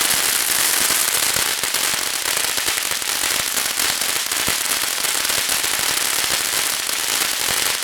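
Consumer firework giving off a dense, continuous crackle of rapid small pops, steady in loudness.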